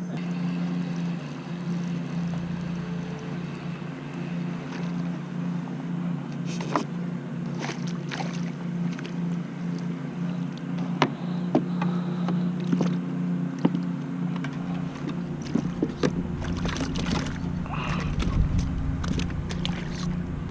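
Ambient sound aboard a fishing kayak on the water: a steady low hum, scattered light knocks and splashes, and a low rumble of wind on the microphone near the end.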